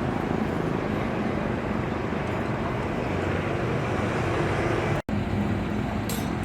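Steady road traffic noise of vehicles running past, which briefly cuts out once about five seconds in.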